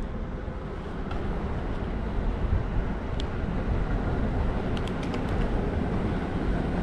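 Steady low rumble of a bicycle ride on city streets, with wind and road noise and passing traffic. A few faint clicks come about three seconds and five seconds in.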